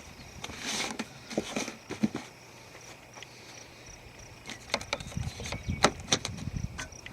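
Duct tape being pulled from the roll and pressed onto a broken taillight: a short tearing swish about a second in, then a run of sharp clicks and taps.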